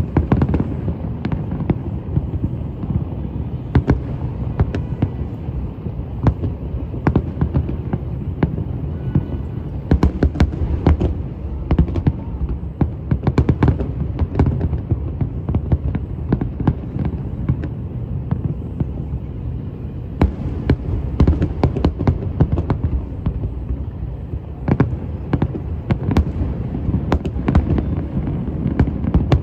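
Fireworks show in full swing: a continuous low rumble of overlapping booms, with many sharp bangs and cracks in quick succession.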